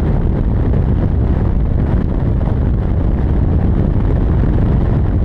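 Pickup truck on the road towing a heavily loaded trailer: a steady low rumble of engine, tyres and wind, without a break.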